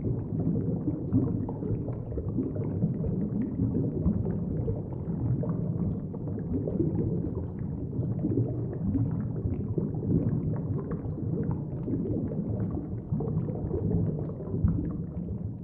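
Underwater bubbles streaming and gurgling, a dense, low, steady bubbling with small scattered pops.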